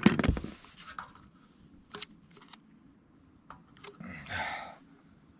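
One loud knock, then a few light clicks and a short rustling or scraping noise about four seconds in.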